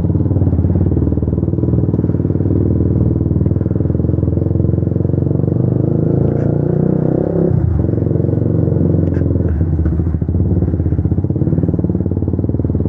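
Motorcycle engine running steadily as the bike is ridden, its note dipping and shifting briefly about seven and a half seconds in and again a couple of seconds later.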